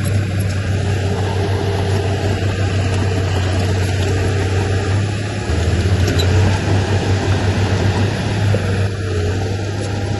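Heavy diesel engine of earthmoving machinery running with a deep, steady hum. It works harder and gets louder about five and a half seconds in, then eases off near the end.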